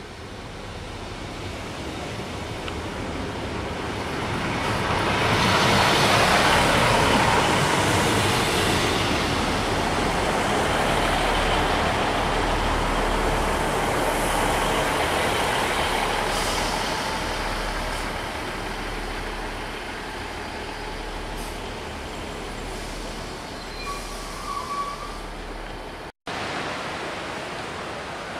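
Diesel multiple-unit passenger train approaching and running past along a station platform: engine and wheels on the rails grow loud about five seconds in, stay loud for some ten seconds, then slowly fade. Near the end the sound cuts to the steady wash of sea surf.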